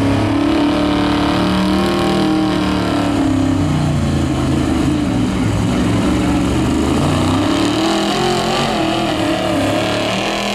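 Street-class diesel pickup truck engine running hard at high revs while it pulls a sled down the track, its pitch dipping and climbing back.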